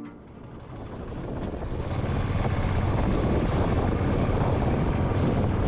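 Motorcycle engine and wind rushing over the helmet microphone while riding, growing louder over the first two seconds and then holding steady.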